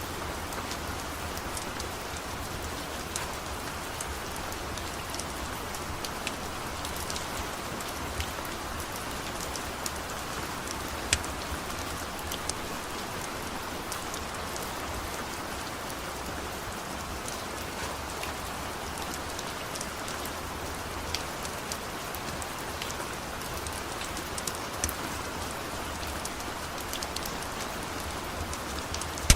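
Steady rain falling, with scattered sharp clicks and pops, a louder one about eleven seconds in and another near the end.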